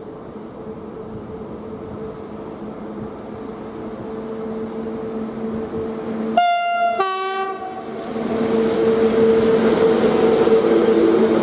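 PKP EP07 electric locomotive approaching with a train of passenger coaches, its steady running hum growing louder. About six seconds in, it sounds its two-tone horn, a short high note followed by a slightly longer lower one. The rolling noise then rises as the train passes close.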